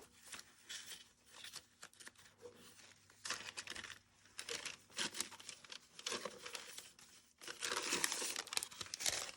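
Paper being handled and crinkled in irregular rustling bursts, which get denser and louder near the end.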